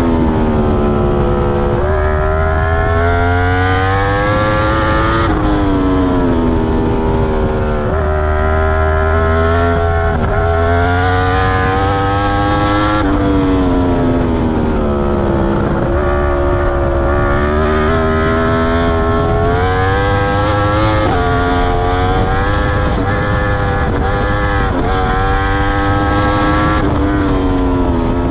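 2021 Yamaha R1's crossplane inline-four through an Akrapovic full titanium exhaust with its dB killer fitted, heard from on the bike at track speed. The revs climb in repeated rising sweeps through the gears and fall back under braking, with a quicker run of short rises and drops in the last few seconds.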